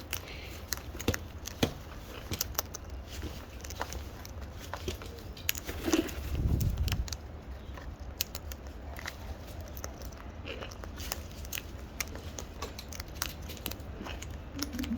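Birds cracking and crunching seed at close range: many small, irregular crisp clicks from beaks on seed husks, with a brief low thump about six seconds in.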